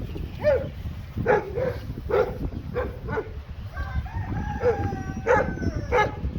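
Farm fowl calling: a string of short calls, then one long drawn-out crow starting about four seconds in.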